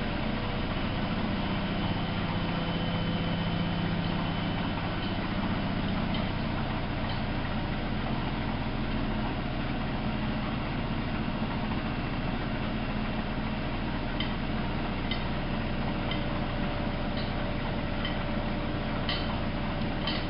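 Miele Novo Super W933 washing machine running with a steady motor hum. Faint short ticks come about once a second in the second half.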